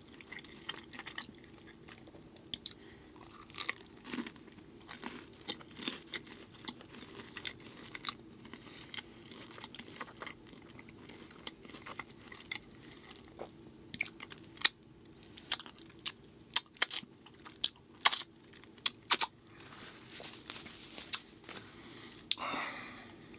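Close-miked chewing of a pizza-flavoured vegan burrito, with irregular sharp mouth clicks that come thicker after about two-thirds of the way through.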